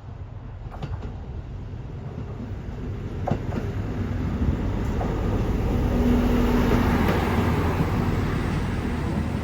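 A Suigun Line diesel railcar running along the track, growing steadily louder, with a low rumble, a few sharp clicks of wheels over the rails and a steady hum from about halfway through.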